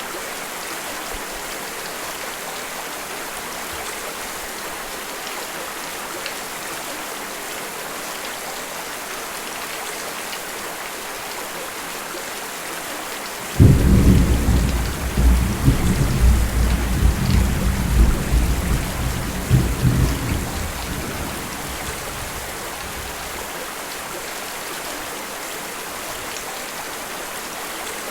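Steady rain falling. About halfway through, thunder breaks suddenly and loudly, rumbling in waves for several seconds before fading back under the rain.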